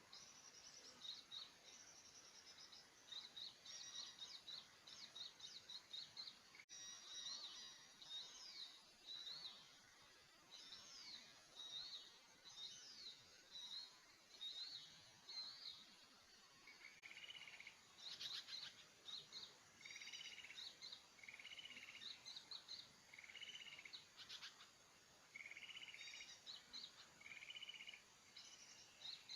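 Small wild birds calling: a steady stream of rapid, high chirps and trills. Past the middle they are joined by a repeated lower call note about every second and a half.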